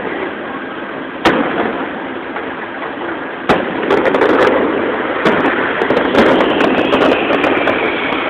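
Aerial fireworks shells bursting with sharp bangs, about a second in, again about three and a half seconds in and once more near the middle. From about halfway through, a dense, continuous crackle follows as glittering crackling stars burst in the sky.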